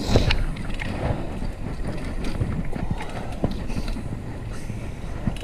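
Wind buffeting the microphone and road noise from a fixed-gear bicycle being ridden, with scattered short clicks and rattles.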